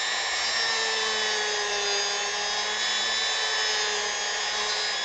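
Dremel rotary tool running steadily with a high whine as its bit rounds off a seam on a carved wooden piece.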